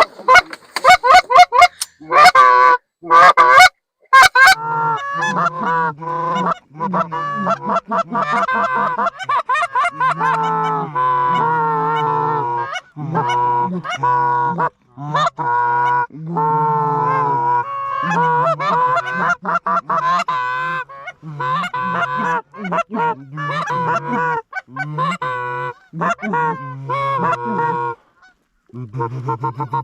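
Geese honking and clucking, call after call with hardly a break, from goose calls and geese working the decoys. A run of very loud, sharp cracks fills the first four seconds.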